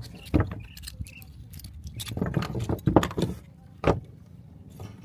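Metal clinking, clattering and knocking: a sharp knock about half a second in, a busy clatter from about two to three seconds, and one more sharp knock near four seconds, over a steady low rumble.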